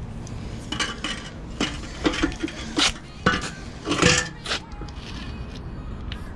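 Steel car suspension arms being handled and set down, giving a string of sharp metallic clanks and clinks with brief ringing over about four seconds.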